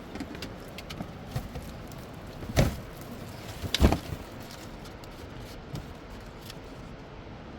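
Two dull thumps about a second apart, with a few light clicks, over a steady hiss.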